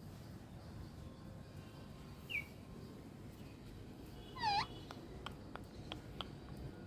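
Parrot calling: a short high call about two seconds in, then a louder, meow-like call that dips and rises in pitch, followed by several sharp clicks.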